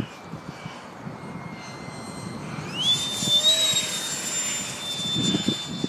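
Electric ducted fan of an E-flite F-4 Phantom RC jet whining in flight. The whine rises sharply in pitch about three seconds in as the throttle is opened, then holds high and steady, over gusty wind rumbling on the microphone.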